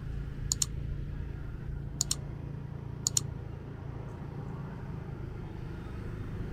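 A motorbike engine runs with a low steady hum, and three sharp double clicks come over the first three seconds or so.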